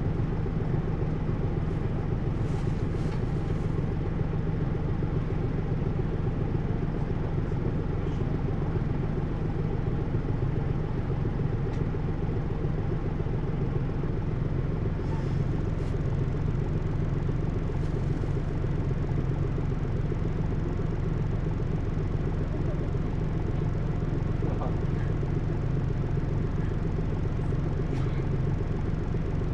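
Hino U-HT2MLAA diesel bus heard from on board, its engine and drivetrain running at a steady drone with no rise or fall in pitch. The uploader notes this bus tends toward abnormal noises, like a sister bus near the end of its life.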